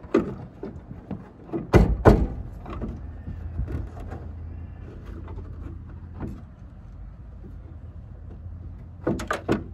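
Irregular sharp knocks and clicks of work on a car's tail light and its plastic clips, the loudest pair about two seconds in and a quick run of three or four near the end, over a steady low hum.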